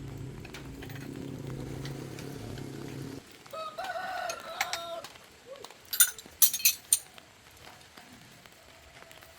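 A low steady rumble cuts off suddenly about three seconds in, then a rooster crows once. A few sharp, loud clinks follow a couple of seconds later.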